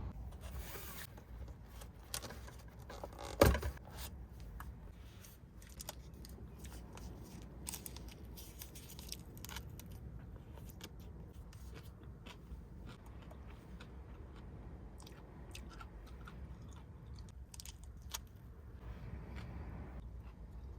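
Objects being handled: scattered light clicks and scraping, with one sharp knock about three and a half seconds in.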